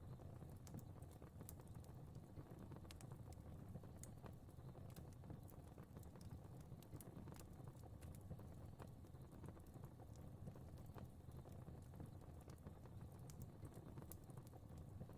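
Fire crackling softly: irregular small pops and snaps over a low, steady rumble.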